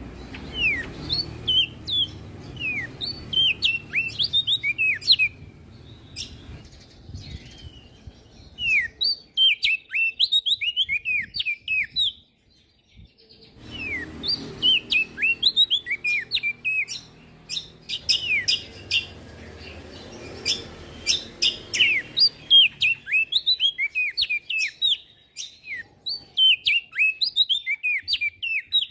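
Prenjak daun songbird singing in rapid runs of quick, sharp, falling chirps mixed with high clicks, with a short pause about twelve seconds in. A low rumble sits underneath for parts of it.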